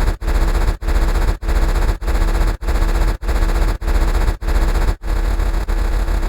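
A loud, harsh, distorted sound effect looped over and over, cutting out briefly and restarting about every 0.6 seconds.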